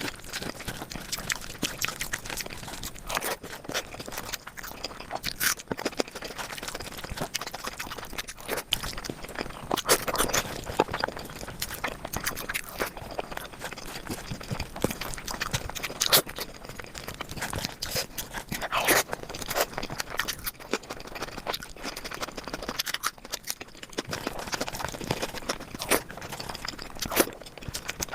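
Close-miked eating sounds of curry and rice: irregular chewing, wet mouth smacks and clicks, with occasional scrapes. A few smacks are louder than the rest.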